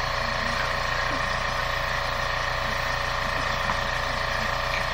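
Motor of a home medical treatment machine running with a steady buzzing hum and a fast low pulsing, level and unchanging.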